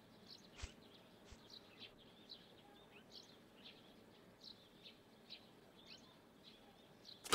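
Faint forest ambience of small birds chirping, with short, scattered high chirps throughout. A few soft knocks come in the first second and a half.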